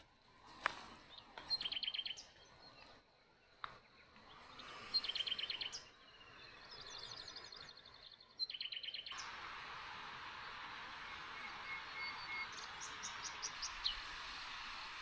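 A small songbird singing short, rapid trills three times, with a few soft clicks. About nine seconds in, a steady rushing hiss like running water sets in.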